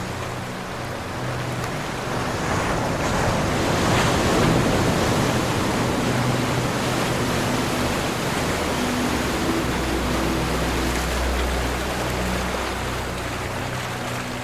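Ocean surf washing in: the wave noise builds about two seconds in, is loudest around four to five seconds, then slowly eases. Low steady tones run underneath.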